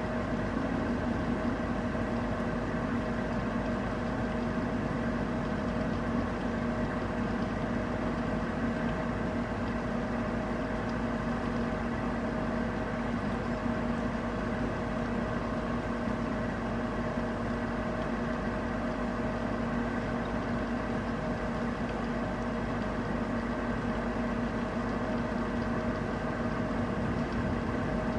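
Steady machine hum holding a few fixed pitches, over an even hiss of rain.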